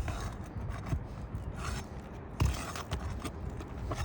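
Irregular scraping and prying at asphalt roof shingles as they are worked loose from their adhesive and nails, with scattered knocks and one sharper knock about two and a half seconds in.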